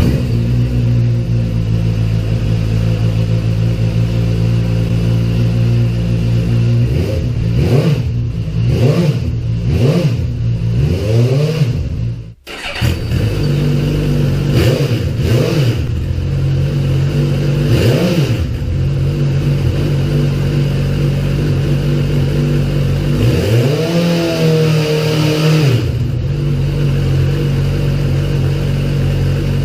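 Suzuki GSX-S1000's inline-four engine idling steadily through its exhaust, then blipped several times in quick succession. The sound cuts out abruptly about twelve seconds in and resumes at idle, followed by a few single throttle blips and a longer, held rev near the end.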